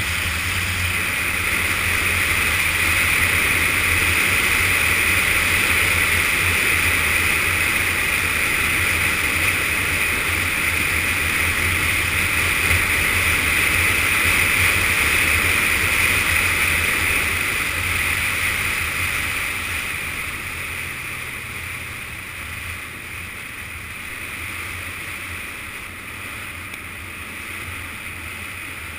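Onboard sound of a Yamaha FZS600 Fazer's inline-four engine running at speed under heavy wind rush on the camera. It gets quieter about two-thirds of the way through.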